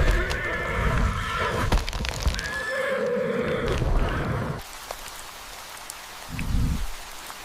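A zebra calling in high, whinnying cries, followed by a lower call about three seconds in. The calls stop about halfway through, and a low rumble comes near the end.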